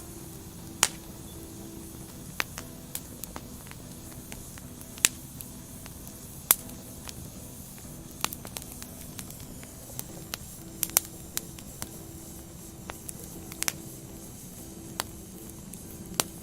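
Burning firewood crackling, with irregular sharp pops from the logs, several of them loud, over a steady low hiss of the flames.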